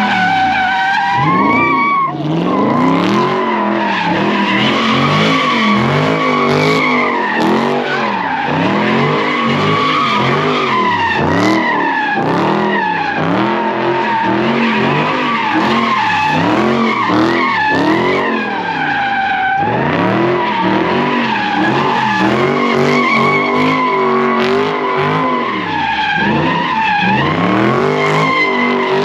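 A car drifting in circles with its tyres squealing continuously, while the engine revs up and down over and over, about once a second.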